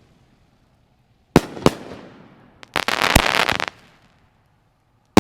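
Aerial firework shells from a double-break cake bursting overhead: two sharp reports about a third of a second apart, each trailing off. Then comes about a second of dense crackle with a louder bang in the middle, and another sharp report near the end.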